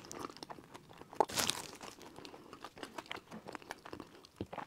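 Close-miked chewing of a sesame-crusted bun with small crisp crunches, mixed with the crinkle of a disposable plastic glove; the loudest crinkling burst comes about a second in.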